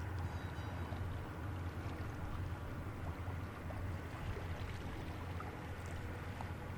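Lake freighter John G. Munson's diesel engines giving a steady low hum as the ship passes.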